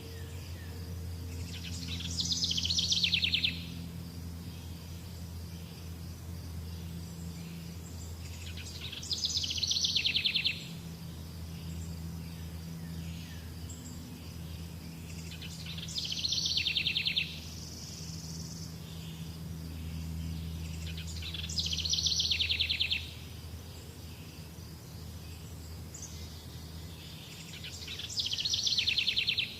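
A songbird repeating a short, rapid trilled song phrase five times, about every six and a half seconds, each phrase growing louder before cutting off. Under it run a steady high insect buzz and a low hum.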